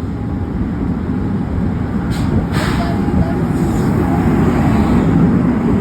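Train at the station platform, a loud steady low rumble that builds slightly, with a short burst of air hiss about two seconds in.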